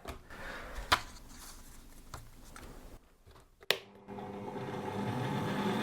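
A few handling clicks, then a sharp click about three and a half seconds in as a Parkside bench pillar drill is switched on; its motor spins up and runs with a steady hum that grows a little louder toward the end.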